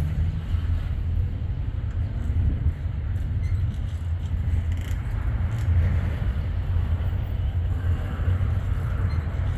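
Freight train passing, a steady low rumble.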